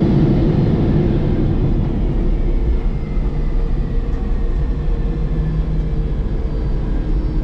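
Steady flight-deck noise of a Boeing 747-400 freighter on approach: an even low rush with a faint steady hum, easing slightly a couple of seconds in.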